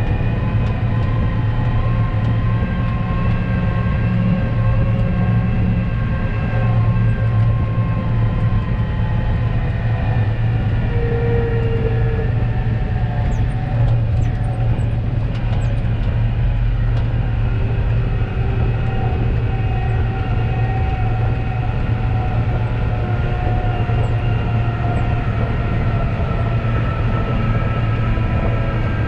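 Heavy diesel engine running steadily, a continuous low drone with faint tones above it that shift slowly.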